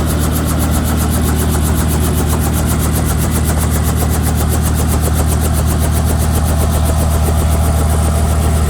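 Helicopter running steadily: low engine and rotor drone with a fast, even chop of the rotor blades, about seven beats a second.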